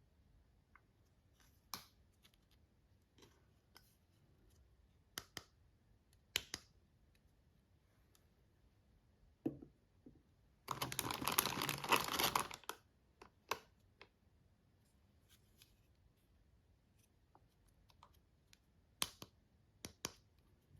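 Unboxing of small toys: scattered light clicks and taps of small pieces being handled, and about eleven seconds in a loud two-second rustle of packaging.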